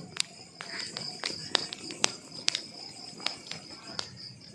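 Wood fire crackling: irregular sharp pops and snaps, about a dozen of them, over a soft hiss, with a steady thin high tone underneath.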